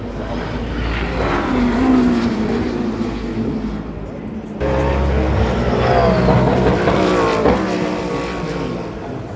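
Hypercar racing prototypes' engines passing at speed, their pitch gliding and falling in the first half. About halfway through the sound changes abruptly to another car's engine passing.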